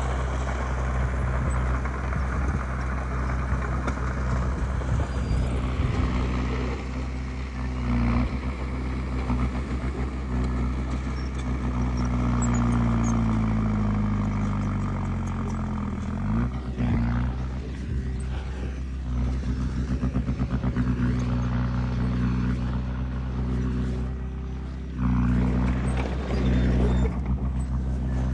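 Heavy diesel engine of earthmoving machinery running steadily; about halfway its pitch sags for a few seconds, as under load, then picks back up, and it gets louder near the end.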